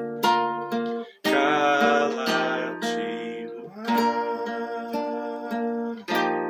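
Acoustic guitar playing the closing bars of a hymn: picked chords, a brief break about a second in, then a full strum followed by ringing chords.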